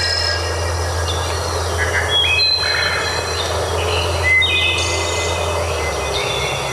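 Birds singing in clear, held whistled notes at several pitches, over a steady noisy background and a low hum that drops away near the end.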